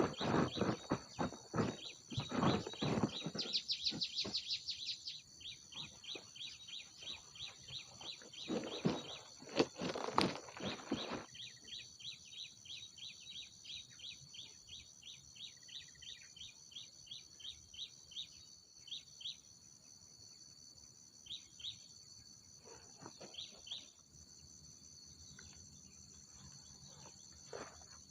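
Outdoor rural ambience: a steady high insect buzz, with rapid runs of short bird chirps that thin out after about nineteen seconds, and some rustling early on and about ten seconds in.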